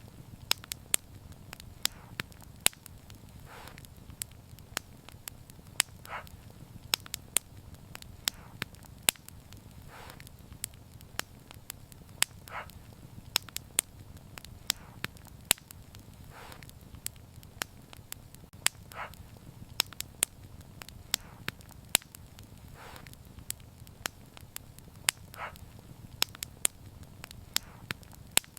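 Wood fire crackling: sharp pops and snaps several times a second over a low steady rumble, with a soft hiss coming back every two to three seconds.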